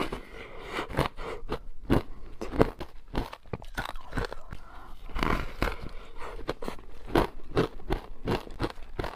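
Teeth biting into wet frozen matcha ice, a rapid, irregular series of sharp crunches and cracks.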